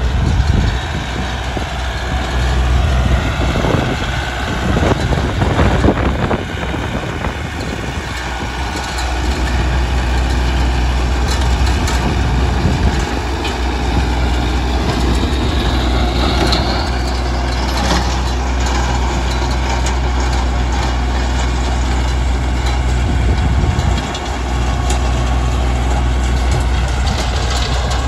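Bobcat CT2035 compact tractor's diesel engine running steadily at a slow crawl while its rear rototiller churns through hard, freshly plowed ground.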